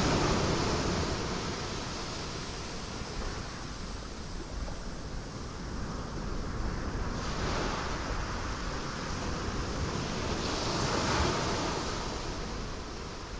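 Ocean waves breaking on rocks, with a steady wash of surf. One surge fades away over the first few seconds, and new waves break about seven seconds in and again near eleven seconds.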